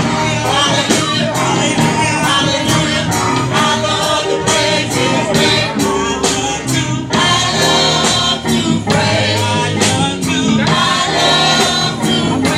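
Gospel music: singing over instrumental accompaniment with a steady, driving beat.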